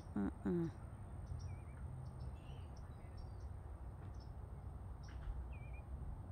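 Outdoor evening ambience: a few faint, scattered bird chirps over a low steady rumble, with a brief voiced sound in two short parts just after the start.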